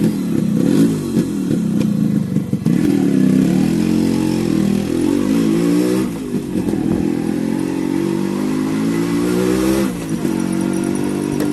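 Yamaha RX100's two-stroke single-cylinder engine pulling away and accelerating, rising in pitch through each gear and dropping back at the shifts, three times.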